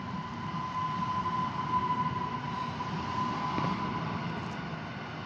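EN57AL electric multiple unit running past beneath: a steady rumble from the running gear, with a steady high whine that swells slightly in the middle.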